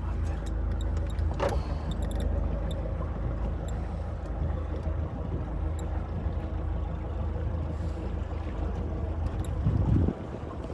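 Boat engine running steadily while underway, a low drone with water and hull noise. Near the end there is a louder rough burst, then the engine drone drops away.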